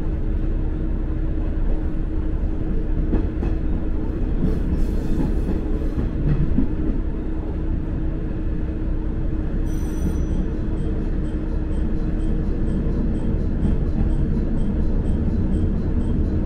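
Diesel railcar running along the line, heard from inside the cabin: a steady low rumble of engine and wheels on rail. A steady hum sits over it for the first half, and a faint regular ticking comes in during the second half.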